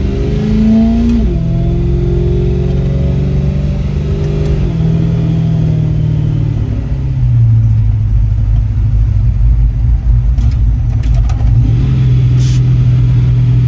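LS V8 engine of a 1949 Ford single spinner running under load while driving. Its note rises and then steps down sharply twice in the first five seconds, sinks lower about halfway through, and picks back up near the end. A few brief clicks come about ten seconds in.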